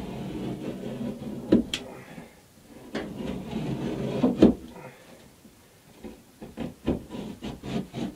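Rubbing and knocking on wood, with two sharp knocks, then a run of quick scraping strokes about four a second near the end.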